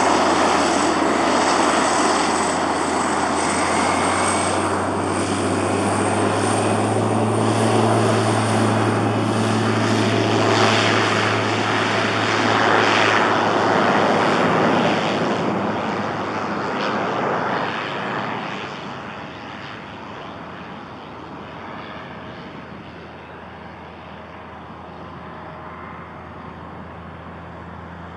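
Pilatus PC-12's single PT6A turboprop engine running at takeoff power, with a low propeller hum and a high turbine whine. It is loud at first, then fades away about two-thirds of the way through as the plane departs.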